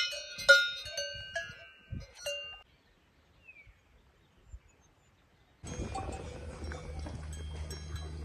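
Cowbells clanking, a quick run of ringing metallic strikes with overlapping tones that dies away after about two and a half seconds. After a few seconds of near silence, a steady noisy background with a low hum comes in about two thirds of the way through.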